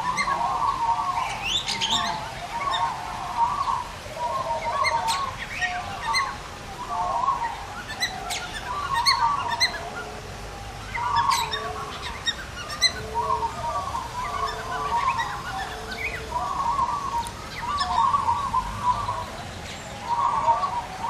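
Caged birds in an aviary calling: a continual chattering babble in short phrases about a second long, with sharp higher chirps over it. About midway, a run of short lower calls comes about once a second.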